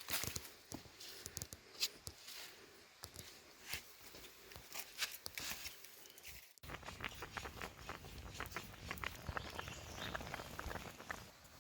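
Irregular small clicks, taps and rustles over a faint hiss. A little past halfway the sound breaks off sharply, then a denser run of quick clicks follows.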